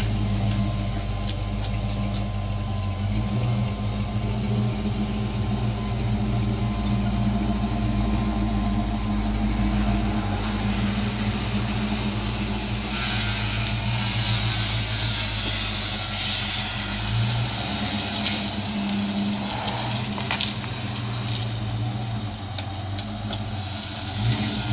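1990 Ford Mustang 5.0 V8 idling steadily through shorty headers, an X-pipe and Flowmaster 10-series mufflers, a low even exhaust note. A hiss comes in about halfway through and stays over the idle.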